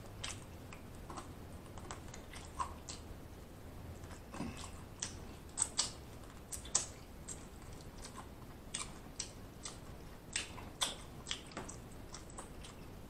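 Eating mouth sounds: chewing fried chicken and sucking meat off a small bone, heard as soft, irregular wet clicks and smacks.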